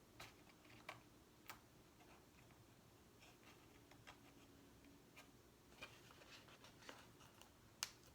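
Faint, scattered clicks and light taps from handling stickers and a sticker box, with a few ticks close together in the second half and one sharper click near the end.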